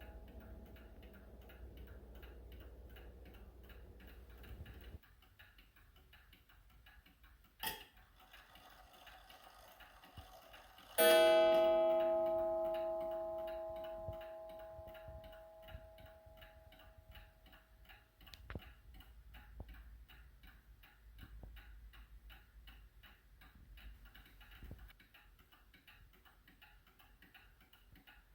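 Seth Thomas beehive mantel clock ticking steadily, then striking once about eleven seconds in, the strike ringing out and fading over several seconds. Before that, a lingering ringing tone with a low hum cuts off abruptly about five seconds in.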